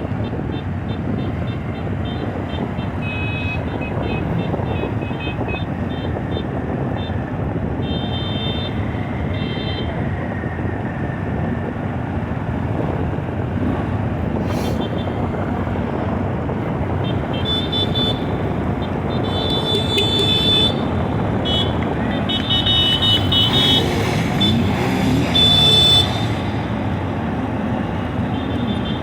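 Copa Truck race-truck engines running on the circuit, a steady din with one gliding pass-by about three quarters of the way through; short high tones sound on and off.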